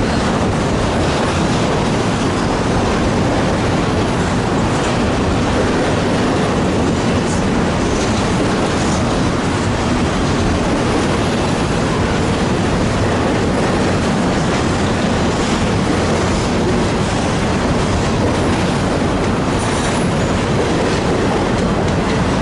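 Freight train cars rolling past, a loud, steady rumble of steel wheels on rail.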